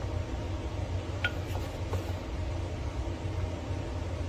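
A steady low hum with one light, ringing clink about a second in, then a couple of fainter ticks: coffee-making utensils being handled while an espresso is prepared.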